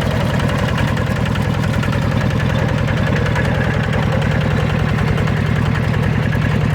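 Ride-on mini tractor's engine running steadily at idle, with an even chugging pulse.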